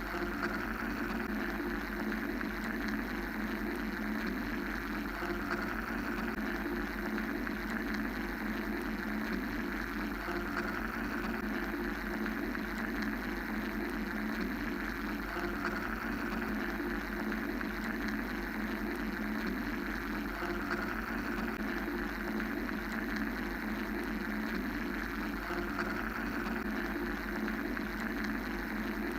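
Steady mechanical droning noise of a white-noise sleep track: a low hum under bands of even rushing noise, swelling and easing slowly every several seconds.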